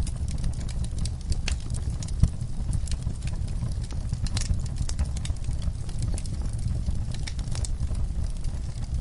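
Wood fire burning in a fireplace: a steady low rumble of flames with frequent irregular crackles and pops, one louder pop a little over two seconds in.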